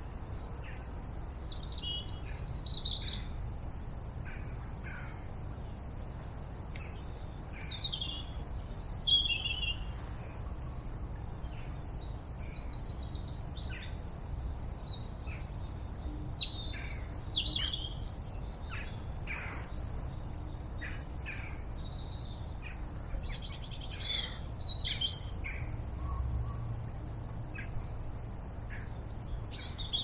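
Songbirds chirping and singing, many short high calls one after another, over a steady low rumble.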